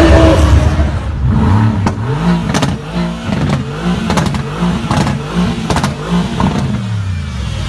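Supercar engine revved in a string of quick blips, its pitch rising and falling about ten times, with several sharp exhaust cracks among the blips. A loud roar of another car fades in the first half second.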